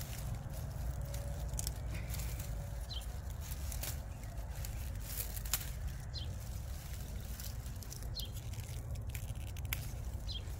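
A short high bird chirp repeating about every two to three seconds, over a steady low rumble and scattered light clicks.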